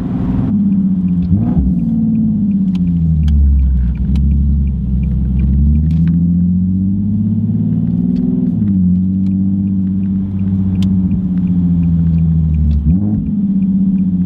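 Nissan 370Z's 3.7-litre V6 running through test pipes and a Z1 Motorsports single-exit race exhaust, with a deep, steady drone under the engine note. The engine note climbs slowly, falls abruptly about nine seconds in, then holds steady, with brief dips about a second and a half in and near the end.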